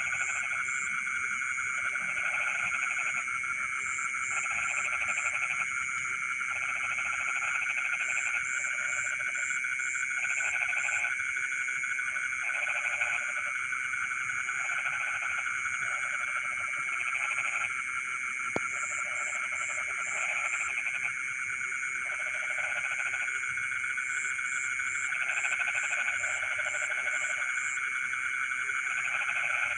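Frog chorus in a flooded rice field: a steady high drone, under repeated short bouts of low pulsed calling every second or two and quick ticking calls higher up. One faint click about two thirds of the way through.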